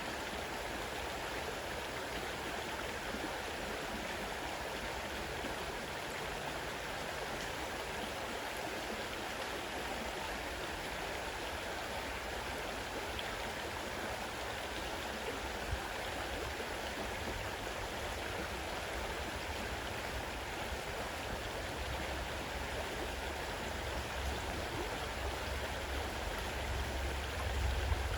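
Fast-running river water rushing steadily over its bed. A low rumble rises in the last few seconds.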